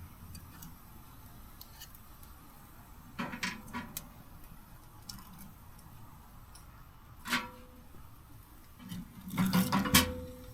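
Handled metal camping gear clinking and clanking in three bunches: a few knocks about three seconds in, a single clank past the middle, and a louder run of clatter near the end, with short metallic rings after the last two.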